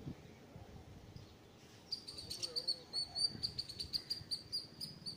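Faint low rumbling, then from about two seconds in a small bird chirping in a quick, irregular run of short high notes.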